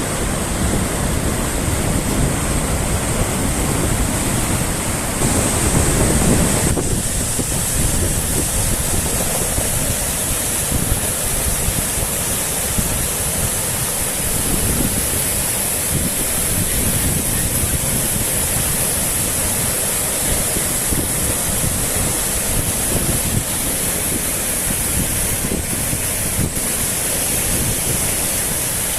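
Steady rush of water as floodwater from a wetland pours through beach sand into the sea, mixed with surf, and wind buffeting the microphone. The low rumble eases about seven seconds in.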